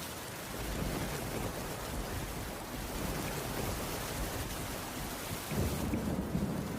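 Heavy rain falling steadily on a wooden cabin roof, with a low rumble swelling in about a second in and again near the end.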